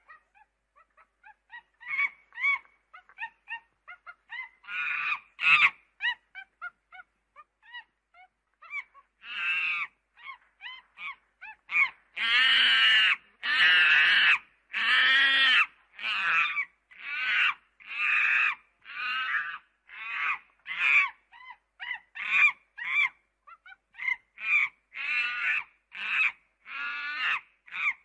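Monkey calling over and over in short, harsh, pitched calls. The calls are scattered and softer at first, then from about halfway through come loud and regular, about one a second.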